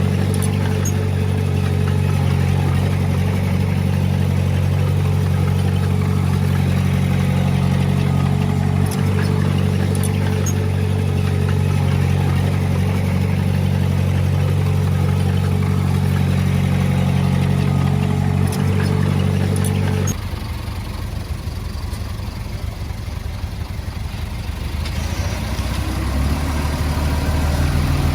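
Heavy diesel engine of earthmoving machinery running steadily under load with a steady whine. About 20 seconds in, it switches abruptly to a quieter engine sound that grows louder near the end.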